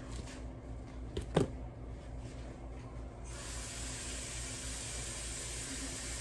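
A couple of light knocks, then a kitchen tap turned on about three seconds in, with water running steadily into the sink to rinse raw meat.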